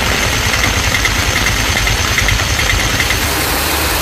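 Heavy rain falling on a waterlogged street, with a steady low engine rumble beneath it and faint rapid high chirps. About three seconds in the sound switches to a hissier downpour with less rumble.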